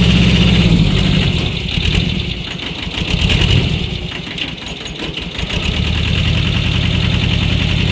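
Tractor engine running at idle with a steady low throb. It drops away for a few seconds in the middle, then comes back as strong as before.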